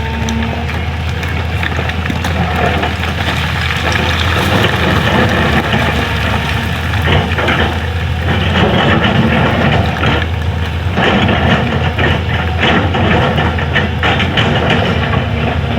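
Excavator's diesel engine running steadily while the bucket digs into the old road surface, giving a busy run of scraping, crunching and short knocks that grows busier about halfway through.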